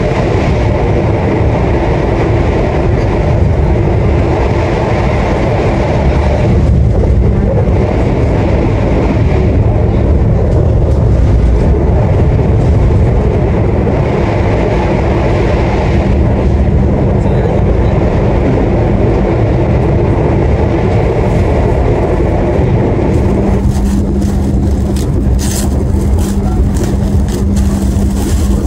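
Stainless-steel executive passenger coach of a locomotive-hauled train running, heard from inside: a steady low rumble of the wheels and bogies on the rails with a steady hum. About three quarters of the way in, the hum grows stronger and faint rattling comes in.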